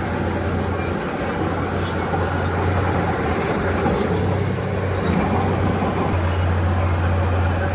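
Komatsu D31P bulldozer's diesel engine running steadily under work, with a strong low drone. Short high squeaks are scattered over it.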